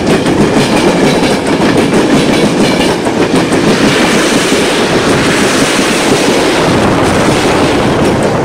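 Passenger coaches of a train rolling past at close range: a steady loud rumble of steel wheels on the rails, with clusters of clicks as wheels cross rail joints. It starts to die away at the very end as the last coach passes.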